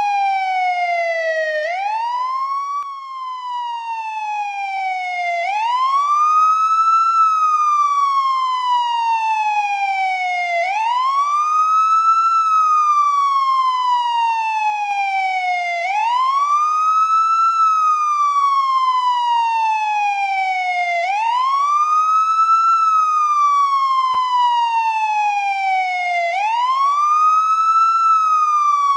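Indonesian police escort (patwal) siren wailing in a repeating cycle: a quick rise in pitch, then a long slow fall, about every five seconds. The first cycle, near the start, is cut short.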